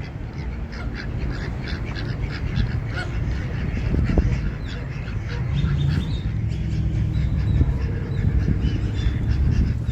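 A flock of waterfowl on a pond calling continuously, many short overlapping quacks and honks, over a steady low rumble.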